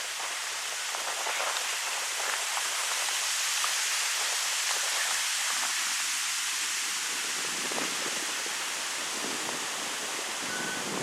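Wind blowing through birch trees, a steady rushing of stirring leaves and branches that swells a few seconds in and eases off again.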